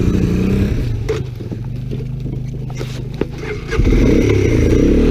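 Small off-road motorcycle engine running, easing off to a lower drone for a few seconds, then revving back up near the end.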